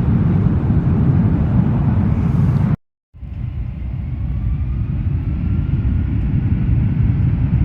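Jet airliner engines rumbling low as a plane passes, with a faint engine whine. The sound drops out for a moment about three seconds in, then comes back a little quieter.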